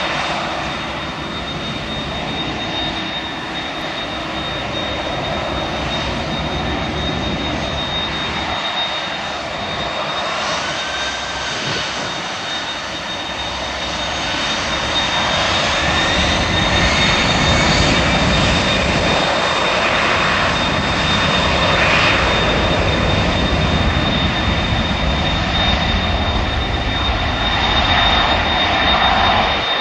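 Airbus A319's CFM56 jet engines running, a steady loud roar that grows louder from about halfway through. A high steady whine sits over it, with whistling tones sliding in pitch.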